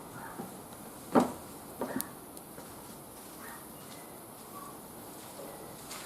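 Wood fire burning in a barbecue grill, crackling with a few sharp, irregular pops; the loudest pop comes about a second in, with a small cluster just after.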